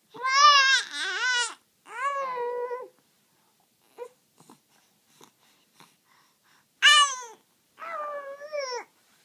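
Baby vocalizing in high-pitched, drawn-out squeals and whines with wavering pitch: two near the start and two more after a quiet pause of a few seconds.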